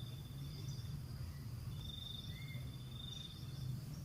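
An insect trilling on one high, steady, finely pulsed note in two long runs, the second starting a couple of seconds in, over a low background hum.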